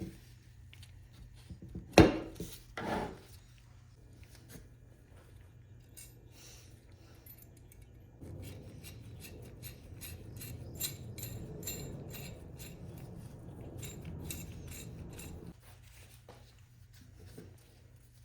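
Metal hand plane being handled and worked: two sharp metallic clanks about two and three seconds in, then about seven seconds of steady rubbing or scraping with fine ticks, which stops abruptly.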